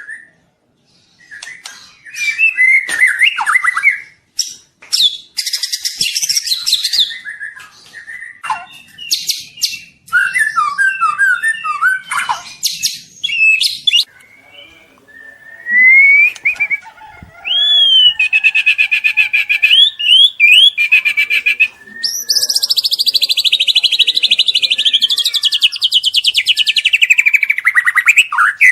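Young white-rumped shama singing a varied, energetic song: short whistled phrases and chattering notes, then long, rapid rattling trills through the second half, sweeping down near the end.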